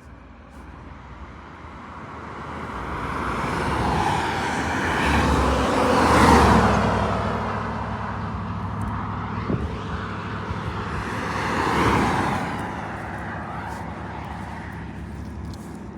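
Road vehicles driving past, one swelling and fading with a peak about six seconds in and a second passing near twelve seconds, mostly tyre and engine noise.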